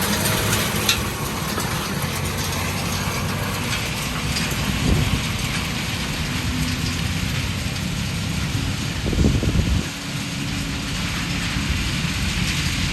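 Heavy tractor diesel engine running steadily as a Case Quadtrac works up the pulling track, with mechanical rattling from the tracks and implement. There is a brief louder surge a little past nine seconds in.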